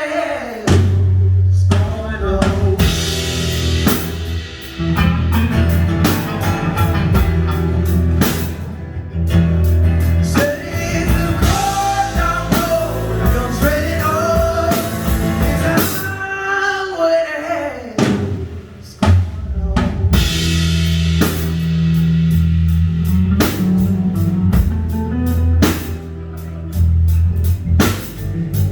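Live band playing a rock-gospel song: drum kit with snare and bass drum keeping a steady beat under electric bass, keyboard and a melodic lead line.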